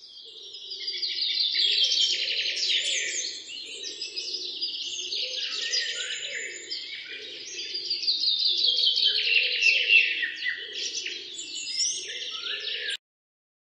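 Many small birds chirping and twittering together in a dense chorus that cuts off suddenly near the end.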